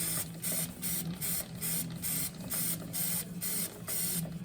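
Aerosol chain cleaner spraying onto a motorcycle drive chain in short, quick hissing bursts, about three a second.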